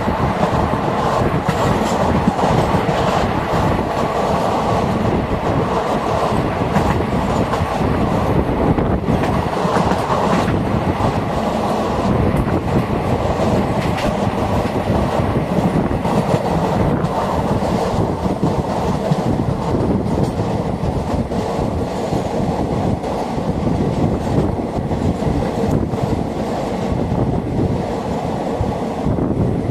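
Passenger train of the Jhelum Express running at speed: a steady, loud rumble of wheels on track, with the clickety-clack of wheels over rail joints.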